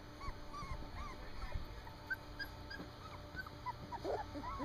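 Three-week-old standard poodle puppies whimpering, with many short high squeaks and a louder wavering whine near the end.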